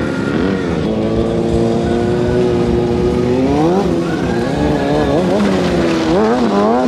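Stunt motorcycle engine revving: held at a steady high rev, climbing about halfway through, then blipped up and down quickly near the end.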